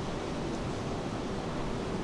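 Steady, even rushing of rain together with ocean surf, with no distinct events and a faint steady hum underneath.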